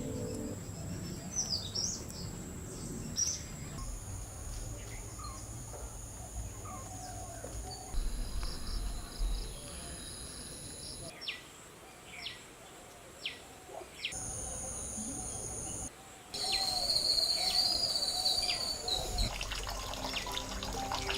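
Birds chirping and calling with short, quick notes, over background noise that changes abruptly several times.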